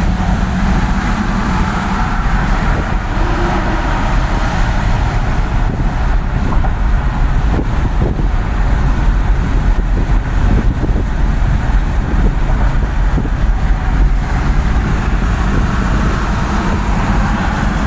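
Steady noise of a vehicle travelling along city streets: a constant low rumble from the moving vehicle and road.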